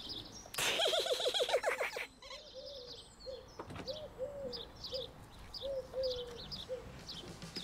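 Birds calling: a run of short, low, cooing notes about two a second, with small high chirps above them. Before that, about half a second in, there is a brief, louder wavering call lasting about a second and a half.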